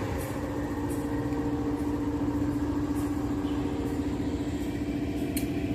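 Long freight train rolling past: a steady low rumble with a constant hum, and sharp clicks every second or so as wheels pass over the rail.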